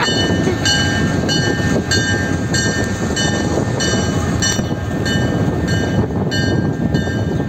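Diesel locomotive's bell ringing steadily, about one and a half strikes a second, over the rumble of the engine and the loaded hopper cars rolling past close by.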